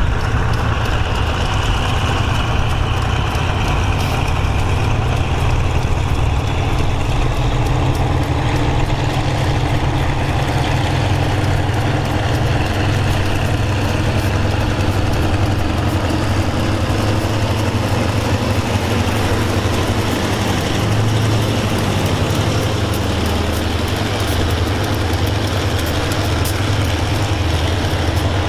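Diesel-hauled passenger train under way: a steady, loud low engine drone with running noise over it.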